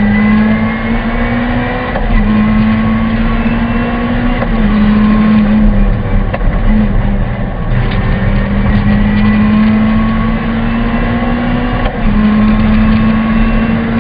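Honda Civic VTi rally car's four-cylinder engine heard from inside the cabin, driven hard at full throttle with revs climbing and briefly dipping several times as the driver shifts gear or lifts off, over a steady rumble of road and tyre noise.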